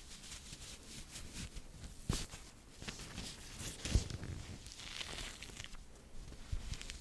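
Close-miked ASMR trigger sounds: a run of soft crackles and crinkles, with two louder knocks, one about two seconds in and one about four seconds in.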